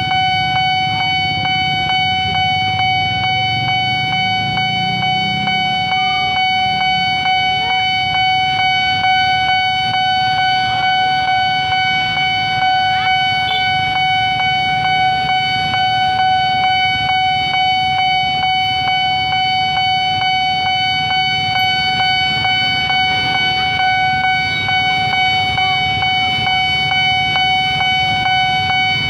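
Railway level-crossing warning alarm sounding without a break as one steady electronic tone, signalling that a train is coming and the gate is closing. A low rumble runs underneath, strongest in the first few seconds.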